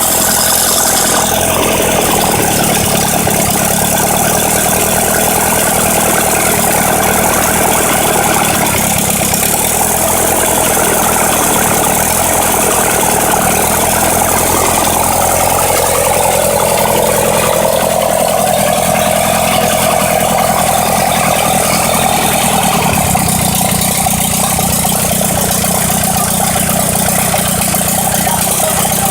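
Rebuilt DV57 engine running steadily at idle; its note shifts about two-thirds of the way through.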